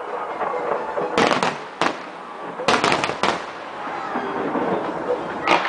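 Fireworks going off: sharp bangs and crackling bursts in clusters, about a second in, again around the middle, and once more near the end.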